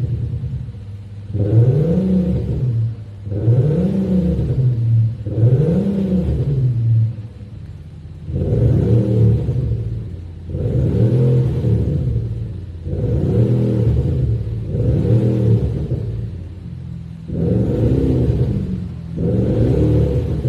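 BMW 520d with an Xhaust active sound system, its speaker-generated synthetic exhaust note revved over and over, the pitch rising and falling about every two seconds, roughly nine blips in all.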